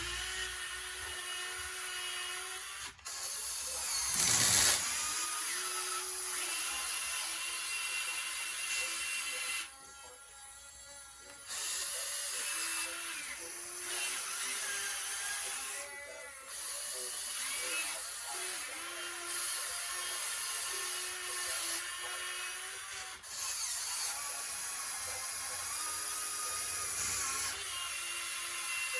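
Whine of a radio-controlled model excavator's electric hydraulic pump and motors, changing pitch as the machine works and stopping and restarting several times. A louder rush of noise comes about four seconds in.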